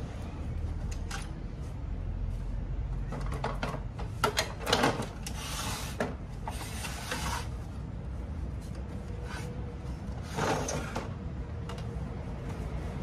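Photocopier parts being handled during repair: scattered clicks and knocks and two stretches of scraping or rubbing, over a steady low rumble.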